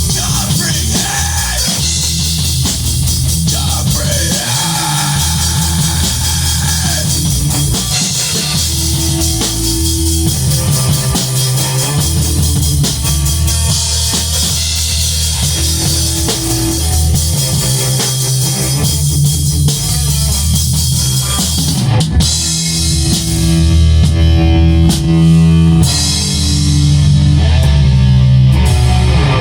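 Rock band playing an instrumental passage, with drum kit and guitar. It gets a little louder about 23 seconds in.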